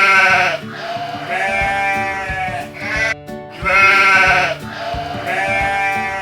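Goat bleating several times in a row, long wavering bleats with a shorter one between, the same sequence heard twice.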